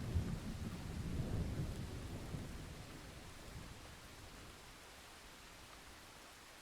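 Thunder rumbling low and fading out over the first few seconds, leaving a steady hiss of rain.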